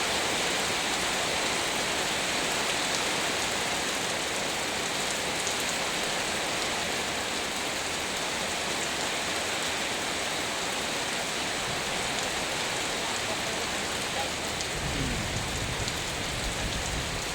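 Heavy rain falling steadily. A low rumble joins it near the end.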